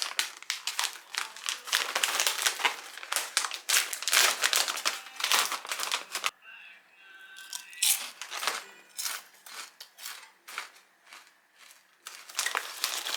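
Crinkling and rustling of plastic or paper being handled, dense for the first six seconds, then quieter with scattered crackles.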